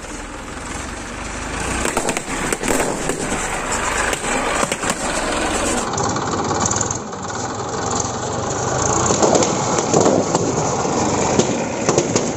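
Tractor engine running as the tractor drives over a carpet of inflated balloons, with scattered sharp pops of balloons bursting under the tyres.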